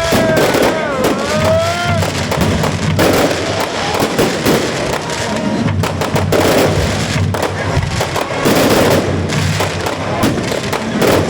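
Fireworks display: a dense, continuous run of shell bursts and crackling reports, with no let-up between them.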